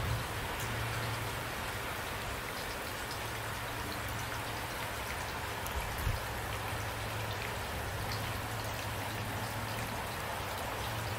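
Steady rain falling, with individual drops hitting a surface and a constant low rumble underneath; a brief low knock comes near the start and again about six seconds in.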